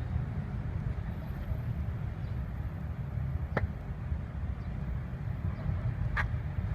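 Steady low rumble of background noise, with two short sharp clicks, one about three and a half seconds in and one about six seconds in.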